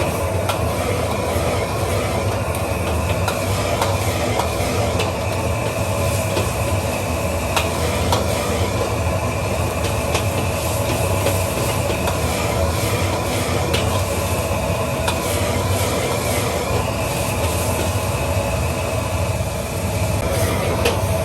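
Wok stir-frying: a gas wok burner and the food sizzling in a steady rush, with a metal spatula scraping and clinking against the wok again and again.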